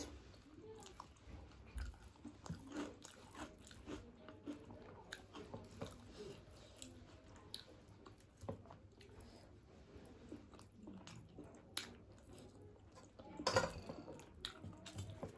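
Close-miked chewing and wet mouth smacks of a person eating soft khichuri by hand, with many short soft clicks, and fingers mixing rice and egg curry on a steel plate. A louder burst of sound comes near the end.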